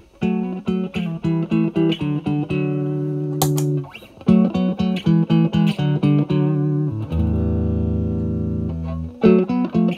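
Stratocaster electric guitar played through a Vertex Steel String Clean Drive MK1 overdrive pedal, set at gain 9, into the clean channel of a Marshall Valvestate amp: mildly driven clean tone. Short picked notes and chord stabs, then a low chord left ringing from about seven to nine seconds in before the stabs resume.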